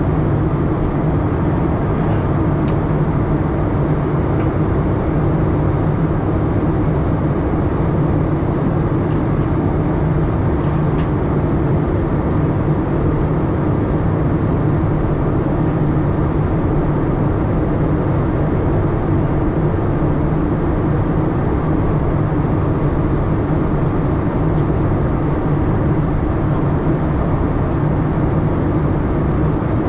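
Steady cabin drone inside a Boeing 787-8 airliner: engine and airflow noise at an even level, with a low hum and no change in pitch or loudness.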